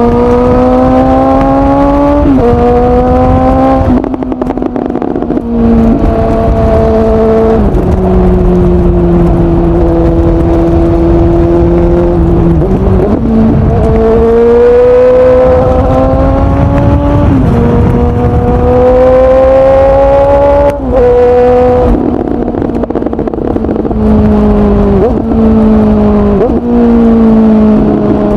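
2019 Suzuki GSX-S750's inline-four engine through a Yoshimura SQ11 exhaust run without its dB killer and with the catalyst removed, pulling hard through the gears: the pitch climbs, then drops sharply at each gear change, about half a dozen times, with a few quick shifts near the end.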